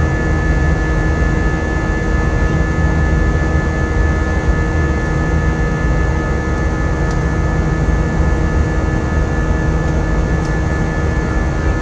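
Airbus A320-232 jet engines, IAE V2500s, heard from inside the passenger cabin: a loud, steady rush with several constant high whining tones over it.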